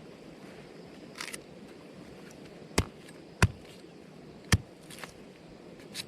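A few sharp knocks over steady low background noise. Three loud ones come in the middle, spaced unevenly about half a second to a second apart, with fainter clicks before and after.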